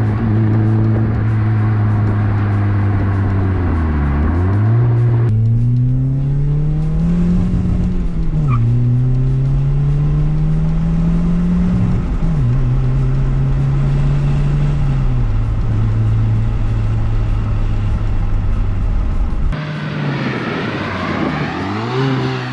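Muffler-deleted 2005 Hyundai Tiburon engine and exhaust under acceleration: the pitch climbs, drops at a gear change about 8 seconds in, climbs again, drops at a second shift about 12 seconds in, then holds fairly steady. About 19.5 seconds in the sound changes abruptly, and the engine note dips and rises again near the end.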